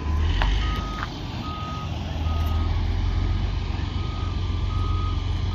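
Backup alarm beeping at an even pace, about one beep a second, over the low steady rumble of a running diesel engine. A few sharp clicks near the start.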